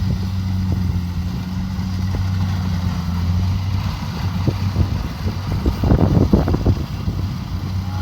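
Kubota DC70 Pro combine harvester's diesel engine running steadily, with a cluster of clattering knocks about six seconds in.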